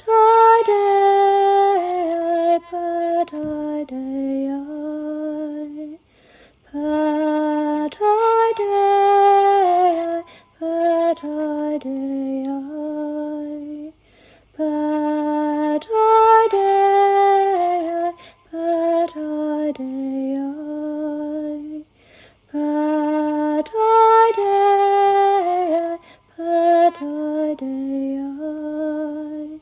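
A woman's voice singing a slow, unaccompanied melodic phrase, repeated four times with short pauses between.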